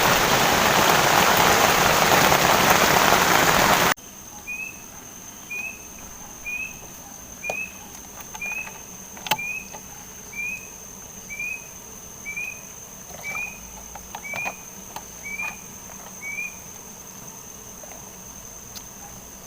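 Heavy rain pelting a camping tent. About four seconds in it cuts abruptly to a night insect chorus: a steady high-pitched cricket drone with about a dozen short rising chirps, roughly one a second, and a few faint clicks.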